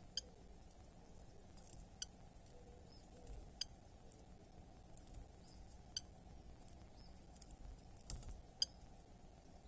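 Low background hiss with short, sharp, high clicks every second or two, six in all, two close together about eight seconds in.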